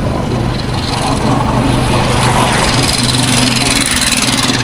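Engine of a moving vehicle running steadily, with road and wind rush that builds about two seconds in.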